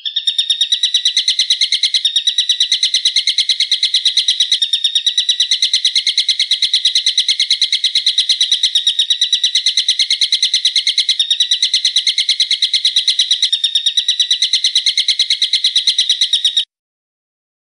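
A bird calling in a fast, even stream of sharp, high repeated notes, about eight or nine a second, with brief breaks every couple of seconds. It stops suddenly near the end.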